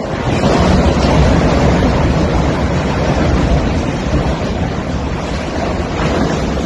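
Wind buffeting the microphone: a steady low rumbling noise that swells about half a second in and stays loud.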